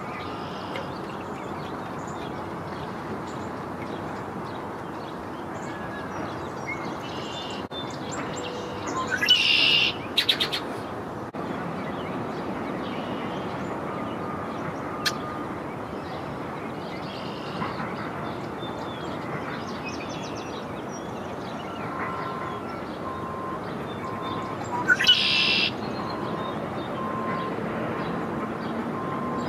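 Birds calling over steady background noise: two loud bouts of rapid, repeated calls, one about nine seconds in and one about twenty-five seconds in, with fainter calls between.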